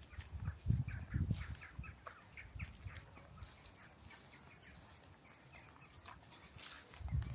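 Small songbirds chirping in short, quick notes, busiest in the first three seconds, with a few low thuds about a second in and again near the end.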